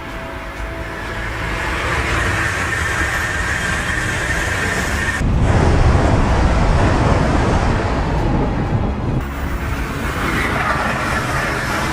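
Moving train, a steady rushing noise in spliced clips that cut abruptly about five seconds in and again about nine seconds in. The middle part is louder and deeper.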